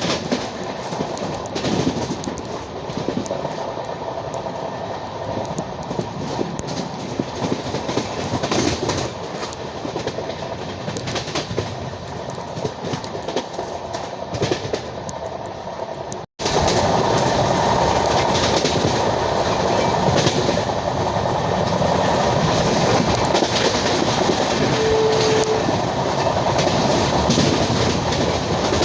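Passenger train running along the track with its LHB coaches: a steady rumble of wheels on rail with scattered clicks over rail joints. A sudden break a little over halfway, after which the running noise is louder.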